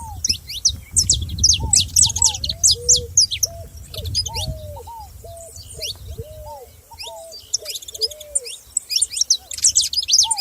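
Several songbirds chirping and singing together in quick, overlapping high notes, with a lower bird repeating short arched calls about twice a second through most of the stretch. A low rumble sits under the first half.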